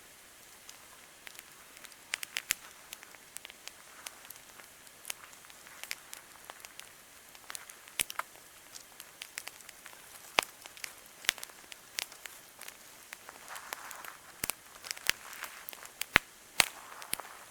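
Campfire crackling: irregular sharp pops and snaps, a few louder than the rest, over a faint steady hiss.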